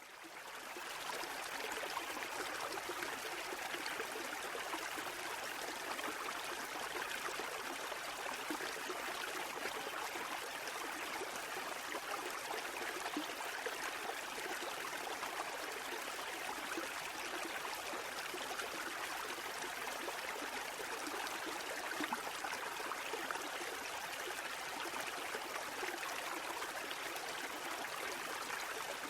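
A steady rush of water, fading in over the first second and then holding even, with no surge and fall of breaking waves.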